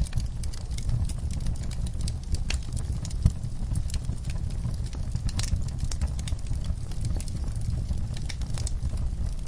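Wood fire crackling in a fireplace: irregular snaps and pops over a low steady rumble, with one sharper pop about three seconds in.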